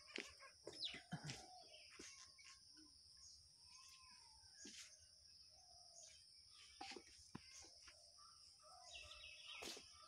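Near silence: faint outdoor background with a few scattered bird chirps over a steady high hiss, and occasional faint clicks.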